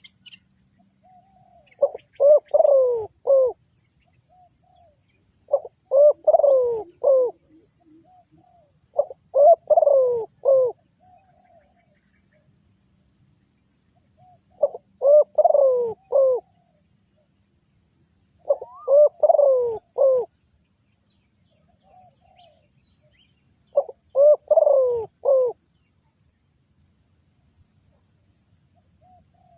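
Spotted dove cooing: six phrases of several coos each, roughly every four to five seconds, with fainter short notes in between.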